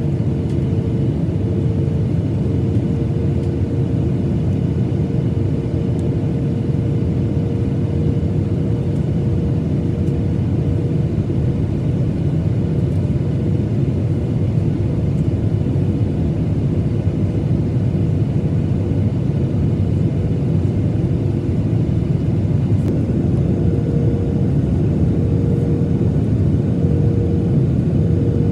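Steady rush of airflow and engine noise inside the cabin of a Boeing 737-900ER in flight, mostly deep in pitch, with a faint steady hum running through it.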